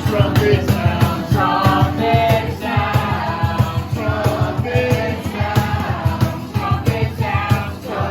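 A group singing a praise song together over music with a steady beat.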